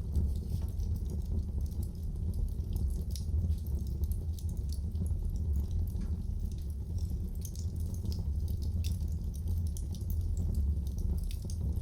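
Wood fire burning in a fireplace: a steady low rumble under frequent small, irregular crackles and pops.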